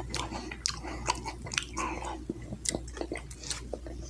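A person chewing a mouthful of smash burger, with many quick, sharp mouth clicks.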